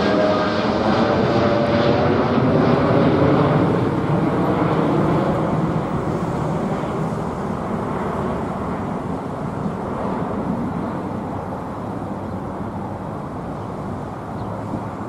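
Boeing 787-8 jet engines at takeoff power, a broad steady roar that fades slowly as the airliner climbs away. Near the start a faint whine falls in pitch.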